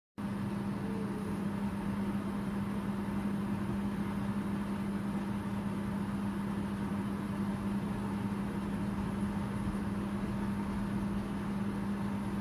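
A steady machine hum with a strong low drone, starting and cutting off abruptly.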